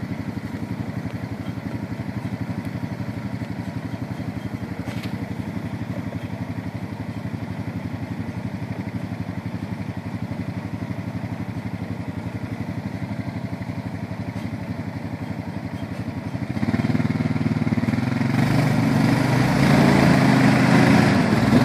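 Honda ATV engine running steadily under load while pulling on a tow strap, then getting louder about 16 seconds in as the throttle is opened further.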